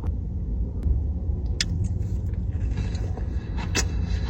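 A person chewing sushi, with a few sharp mouth clicks, over a steady low rumble.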